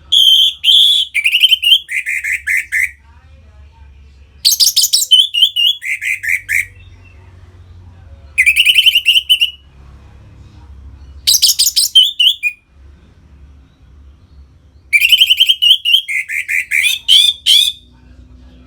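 Orange-headed thrush singing its clear, full 'ngeplong' song: five phrases a few seconds apart, each a quick run of notes stepping down in pitch, over a faint low hum.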